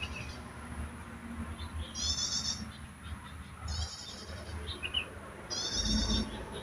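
A wild songbird giving a short, high, buzzy call three times, about one and a half seconds apart, with a few brief chirps in between, over a steady thin high whine. A low rumble comes near the end.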